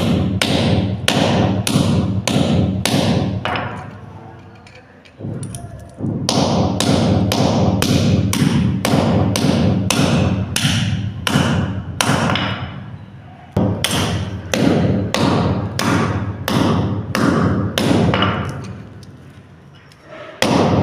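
Hammer blows on a scrap brass MTA pipe fitting, breaking it apart to free the brass inside: sharp strikes about two a second with a short ring after each, in three runs with brief pauses between.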